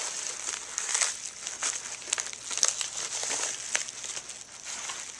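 Cardboard shipping box being opened and its packing handled by hand: irregular crinkling and rustling with scattered light scrapes and clicks.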